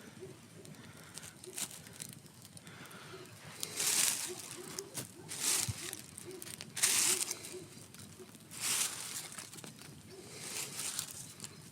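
Campfire crackling, with bursts of crackle and hiss coming every second or two.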